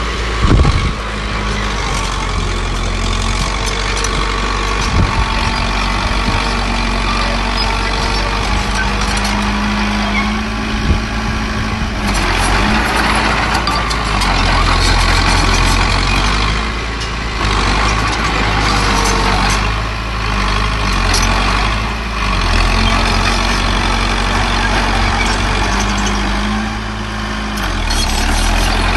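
Heavy diesel earthmoving machinery running continuously, its engine note swelling and easing several times as it works, with a few short knocks, the loudest just under a second in.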